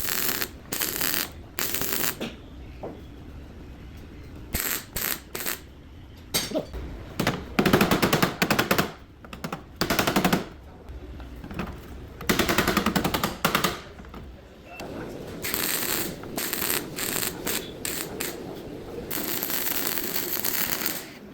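Bursts of rapid, rattling mechanical impacts from car body-repair work, stopping and starting every second or two, with two longer runs of very fast strokes and a steadier grinding-like noise near the end.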